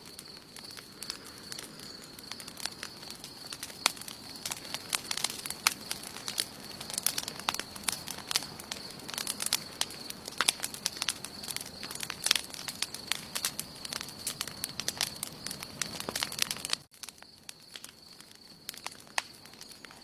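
Campfire burning, the wood crackling with frequent sharp pops and snaps; a little before the end the sound drops suddenly and the pops become sparser and quieter. A steady high-pitched tone runs underneath.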